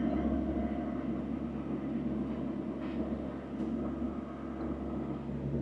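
Diesel engine of a piece of compact earthmoving equipment running steadily at an even speed.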